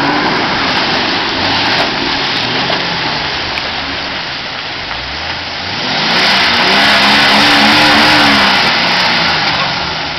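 Four-wheel-drive engine revving up and down under a steady rushing noise during a snatch-strap recovery of a bogged Nissan Patrol, loudest from about six to nine seconds in.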